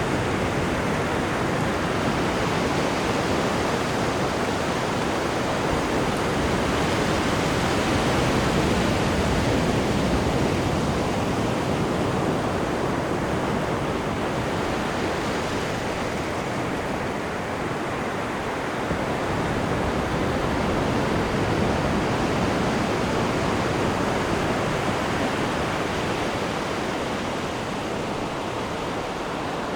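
Steady rush of churning water in a cruise ship's wake, the sea noise swelling and easing gently.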